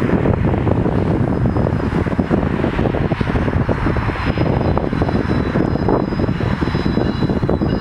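GO Transit bilevel commuter train approaching, a loud steady rumbling roar mixed with wind buffeting the microphone. Faint high squealing tones join about halfway through.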